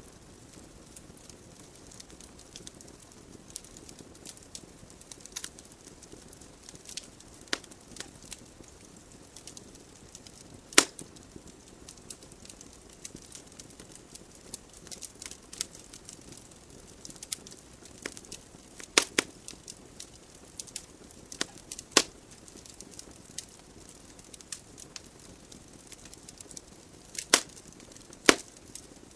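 Wood logs burning in a fireplace: a soft, steady hiss of flames with frequent small crackles and a handful of sharp, louder pops, the biggest about eleven seconds in, a pair near 19 and 22 seconds, and two close together near the end.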